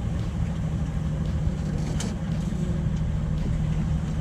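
Sailing yacht's engine running steadily while motoring: an even low drone with a constant hum.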